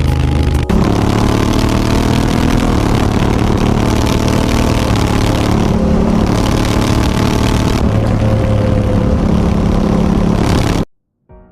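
Honda Africa Twin CRF1000's parallel-twin engine running through an Akrapovic exhaust while riding, over wind and road noise, its note shifting in pitch a few times. The sound cuts off abruptly near the end.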